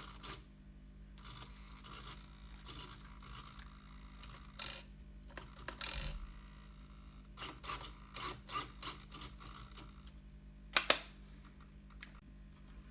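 Scattered small plastic clicks and brief scrapes of handling as the buttons and switches of an RC car transmitter are worked, the loudest click about eleven seconds in.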